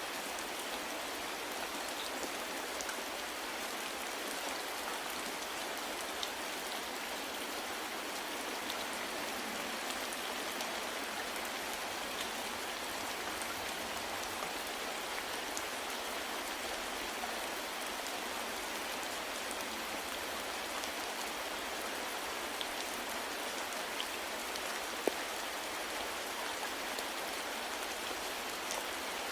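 Steady soft rain falling, an even hiss with scattered small drop ticks, one a little sharper about 25 seconds in.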